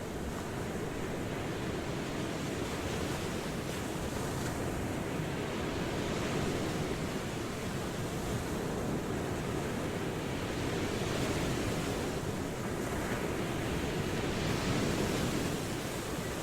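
Ocean waves washing onto a shore in a steady wash of surf noise that slowly swells and eases every few seconds.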